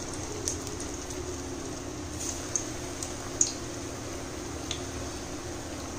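Keerai vadai (drumstick-leaf fritters) deep-frying in hot oil: a steady sizzle with scattered sharp pops, the loudest about three and a half seconds in.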